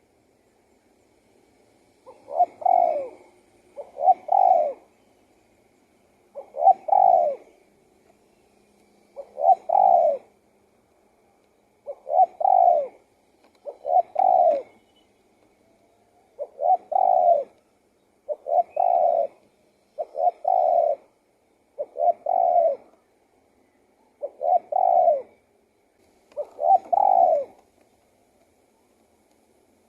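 Spotted dove cooing: a run of about a dozen short coo phrases, one roughly every two seconds, starting about two seconds in.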